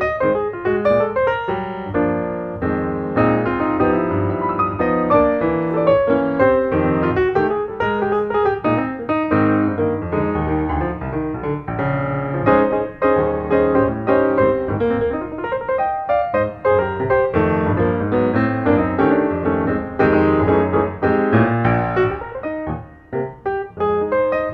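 Background piano music: a continuous run of many quick notes.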